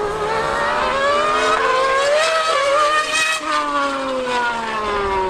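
High-revving racing engines of an F1 car and a superbike at full throttle in a drag race. The engine pitch climbs to a peak about three seconds in, then drops steadily as they pass and pull away.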